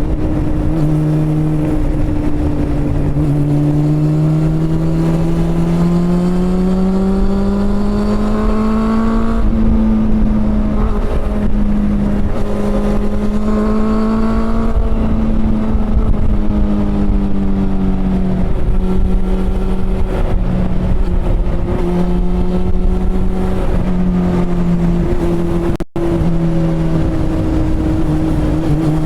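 Honda CB400 Super Four's inline-four engine pulling under load on the road, its revs climbing slowly for the first nine seconds or so and then held fairly steady with small dips and rises, over a low rumble of wind and road noise. The sound cuts out for an instant about 26 seconds in.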